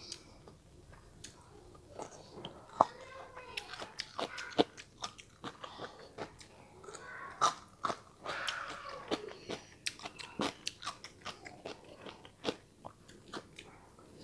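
Close-miked chewing and biting of stir-fried chicken gizzards, with many irregular sharp crunching clicks and wet mouth sounds.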